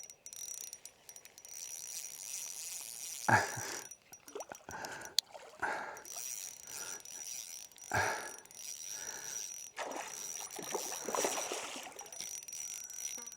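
Creekside outdoor ambience with a steady high-pitched insect trill, broken by a few short, soft knocks and splashes while a hooked fish is played on a light spinning rod.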